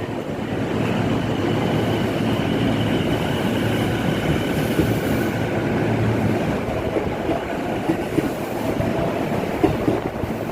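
Chuo Line electric commuter train moving past the platform: a continuous rumble from the cars and wheels, with faint whining tones from its motors that shift in pitch partway through.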